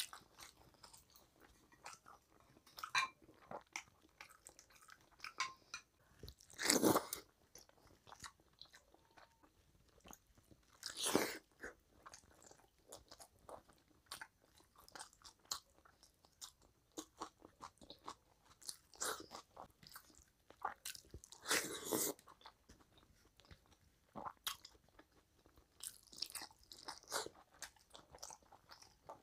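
Close-up mouth sounds of a person eating rice and curry by hand: chewing, lip smacks and small wet clicks, with a few louder bursts now and then.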